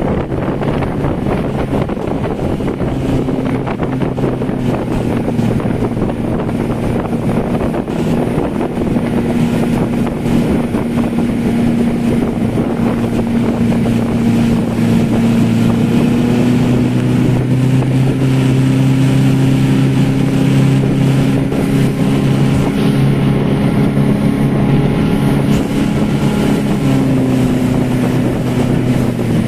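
Motorboat engine running steadily at speed, with wind rushing over the microphone; the engine hum grows a little louder partway through.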